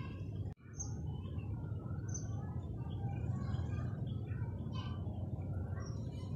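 Small birds chirping in short, scattered calls over a steady low rumble, with a brief dropout in the audio about half a second in.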